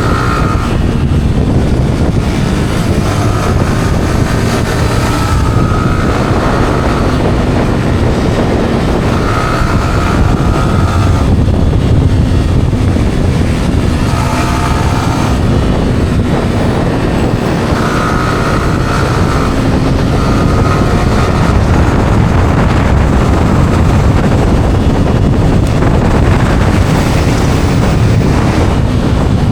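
Yamaha R15 single-cylinder engine with its stock exhaust running as the bike rides, its engine tone fading in and out. Heavy wind rush on the camera microphone covers much of it.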